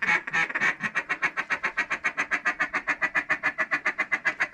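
Duck call blown in a fast, even feed chuckle: a steady run of short, reedy notes, about ten a second.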